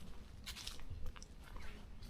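Birds calling in a forest: a burst of short, harsh, crackly notes about half a second in, then a few brief chirps.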